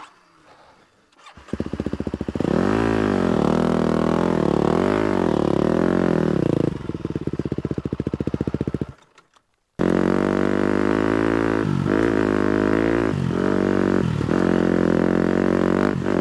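250cc four-stroke dirt bike engine that goes quiet at the start, comes back about a second and a half in and revs up and down. It falls away again past the middle, then picks up and runs steadily with several brief dips in revs.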